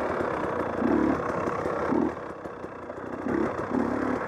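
Two-stroke dirt bike engine running while being ridden. The throttle swells in short pulls about one and two seconds in, dips for a moment, then picks up again twice near the end.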